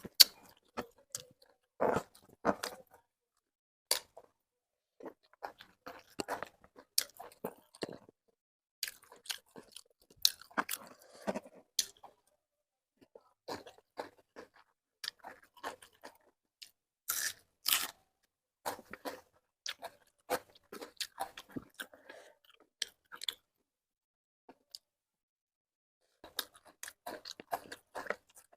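A person chewing and crunching food close to the microphone, in irregular crackly bites with short pauses between them.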